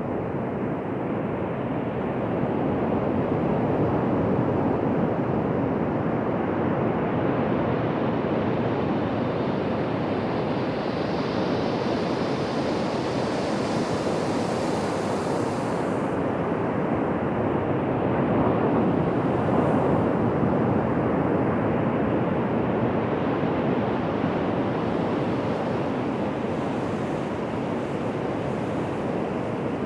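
Ocean surf washing continuously onto a beach, swelling slightly now and then, with a brief hiss of breaking foam that stops abruptly about halfway through.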